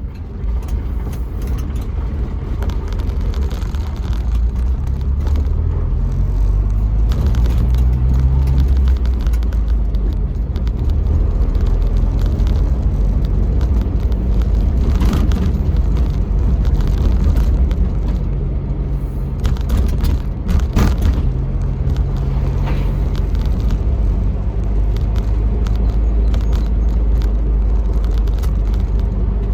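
Jeep Wrangler TJ being driven, a low engine note under road noise that steps up and back down in pitch as it changes speed. A few brief knocks come through around the middle.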